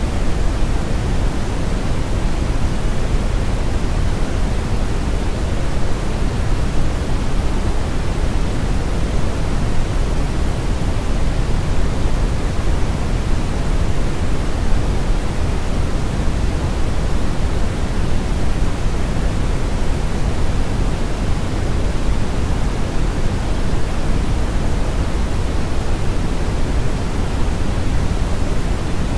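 Brown noise: a steady, even rumble of synthetic noise, heaviest in the bass with the highs rolled off, without any change.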